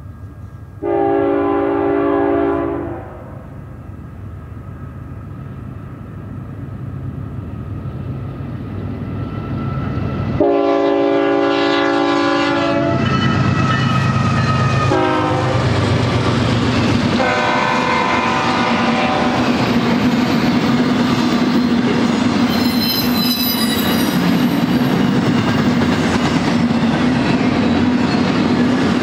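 A freight train's diesel locomotive horn gives one long blast about a second in, then the GE diesel locomotives' rumble grows as they approach. The horn sounds again in several blasts from about ten seconds in as the locomotives pass. After that comes the continuous loud rumble and clatter of double-stack container cars rolling by on the rails.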